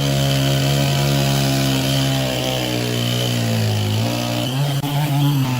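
Small engine of a gas-powered saw running steadily; its pitch drops between about two and four seconds in, then rises again near the end.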